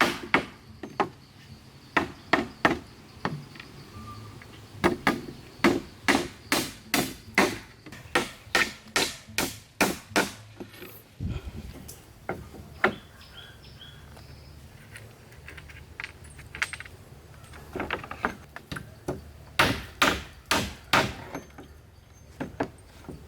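Repeated chopping blows into wood, about two to three a second, in a run lasting about ten seconds. A few scattered strikes follow, then another quick run of chops near the end.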